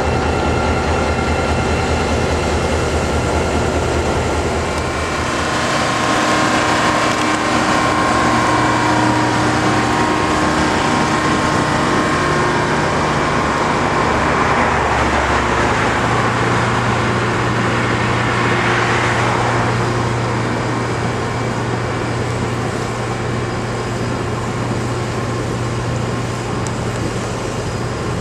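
Diesel locomotive engine running as the train pulls away, growing louder about five seconds in. Passenger cars then roll past on the rails in a steady rumble.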